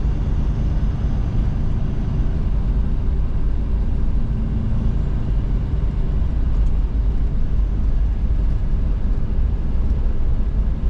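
Steady engine and road rumble heard from inside a truck's cab while driving, a continuous low drone with no distinct events.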